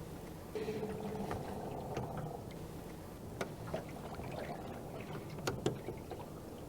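Faint steady low hum around a small fishing boat, with a few scattered light clicks and knocks from tackle and gear being handled.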